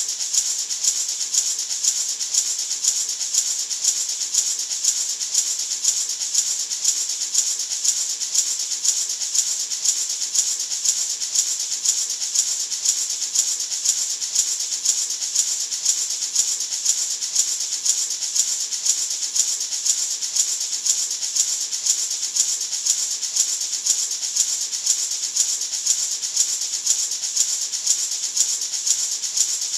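Gourd maraca shaken steadily in an even rhythm, about two shakes a second, giving a continuous bright rattling hiss of seeds against the gourd.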